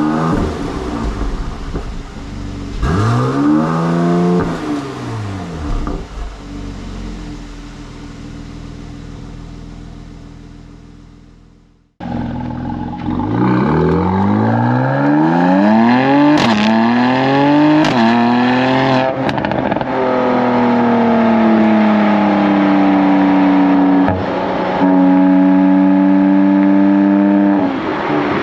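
Mercedes-AMG C43's twin-turbo V6 with the factory performance exhaust, revved twice while standing and falling back to a fading idle. After a sudden cut, the exhaust is heard close up from the rear bumper as the car accelerates, its pitch rising through several gears, then settling to a steady cruise.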